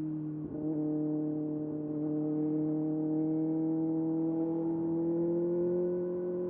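Kawasaki ZX-6R's 636 cc inline-four engine running under way. An upshift about half a second in drops the pitch, which then climbs slowly as the bike gathers speed.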